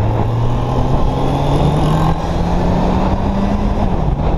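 Kawasaki Z800's inline-four engine pulling under acceleration, its pitch rising steadily for about three seconds and then dropping near the end as the throttle is eased or a gear is changed, with wind rushing over the microphone.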